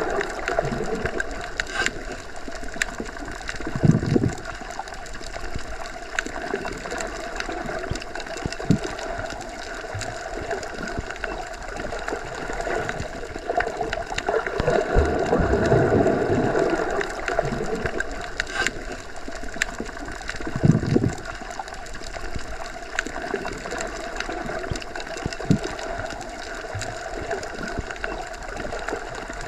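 Underwater ambience as heard when submerged: a steady low water hum with faint tones, swelling now and then, with a few low thumps spread through.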